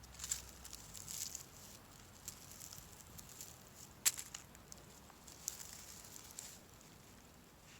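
Very dry moss and forest litter crackling and rustling as it is disturbed, with scattered small snaps and one sharper snap about four seconds in.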